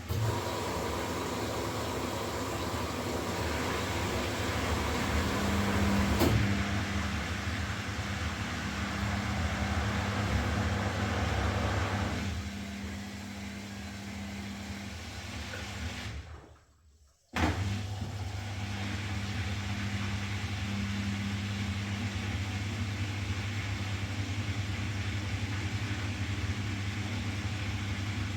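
Washing machine running: a steady motor hum with a noisy wash of sound over it and a click about six seconds in. Past the middle it drops out for about a second and comes back abruptly, steadier and lower.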